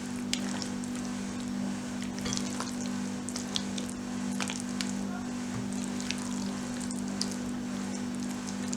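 Food-preparation sounds in a bowl: scattered wet crackles and small clicks, like a moist salad mixture being stirred, over a steady low hum.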